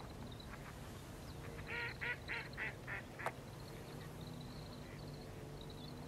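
A run of five coarse bird calls about a quarter-second apart, loudest at the start, followed by a sharp click. Under them runs a faint, steady chatter of short high notes, fitting grey-capped greenfinches twittering.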